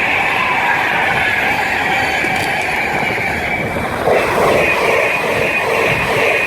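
A train running through the station, a loud steady rush of wheel and rail noise with a high ringing note from the wheels on the track. About four seconds in it gets slightly louder and a lower humming note joins.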